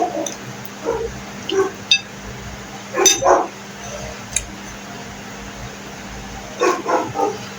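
A dog barking in short separate barks, loudest about three seconds in, with a quick run of barks near the end.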